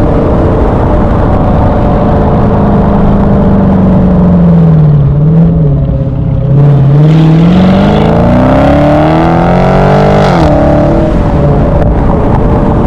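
Loud V8 engine running. Its pitch sags a little, then climbs steadily for about three seconds as it revs up, drops sharply, and settles back to a steady run.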